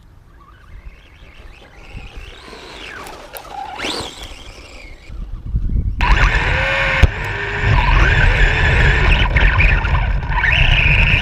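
A vehicle driving hard over rough ground, its motor whining up and down in pitch. It is faint at first and turns loud about halfway through, over a low rumble.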